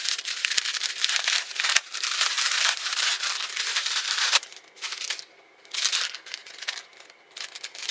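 A package's wrapping being torn open and crinkled: dense crackling for about four seconds, then a few shorter rustles.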